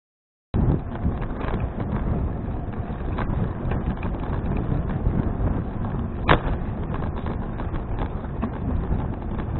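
Wind buffeting the microphone and road rumble from a Fuji Touring bicycle riding along, a steady rushing noise. The sound cuts out completely for about half a second at the start, and there is a single sharp click about six seconds in.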